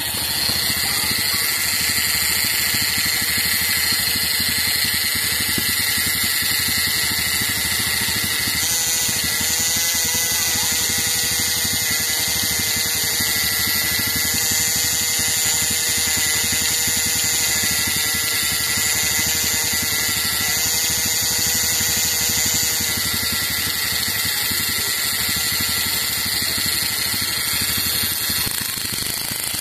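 Small air-cooled single-cylinder motorcycle engine running steadily on ignition from a home-made fish-stunner inverter circuit, with a steady high whine over it.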